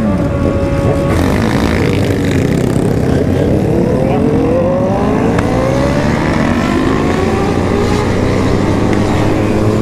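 Remapped sport motorcycles running in a group: the engine pitch drops in the first second, then climbs steadily over the next few seconds as the bikes accelerate, over a low rumble of wind and road.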